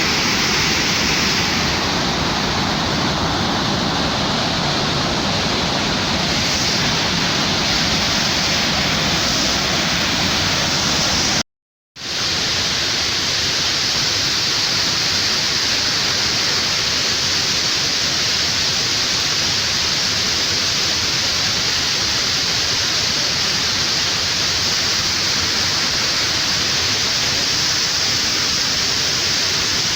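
Waterfall rushing steadily, water pouring down into a cave; the rush drops out for a split second a little before halfway, then carries on the same.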